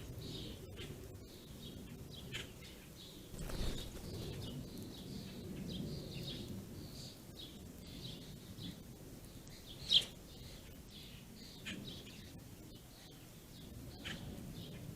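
Small songbirds chirping in short, scattered calls over a low background hum, with one louder chirp about ten seconds in.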